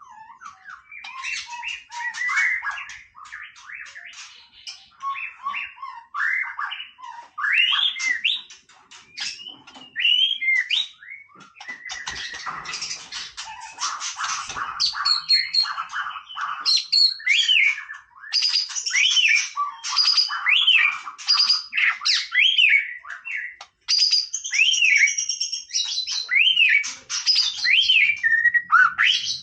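White-rumped shama singing a long, varied song: quick clicking notes at first, then whistled phrases that rise and fall, ending in a run of repeated arching whistles.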